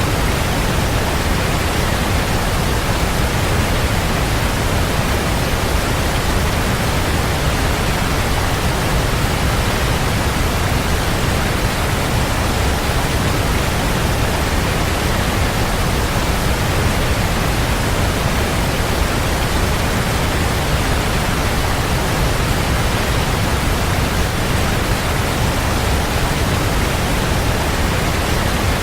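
Waterfall: a steady, even rush of falling water, heavy in the low end, with no change throughout.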